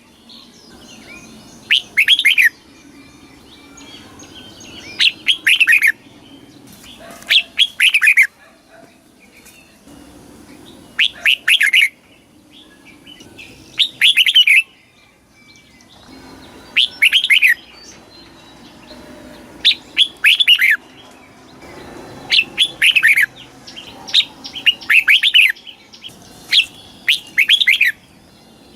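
Red-whiskered bulbul singing: short, loud phrases of a few quick sweeping whistled notes, repeated about every two to three seconds.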